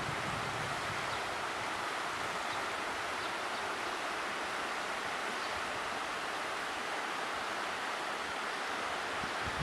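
A steady, even outdoor rushing noise with no separate events.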